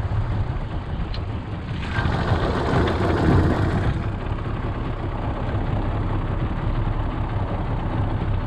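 Engine of a small work barge running steadily, with a louder rush of noise swelling for about two seconds near the middle.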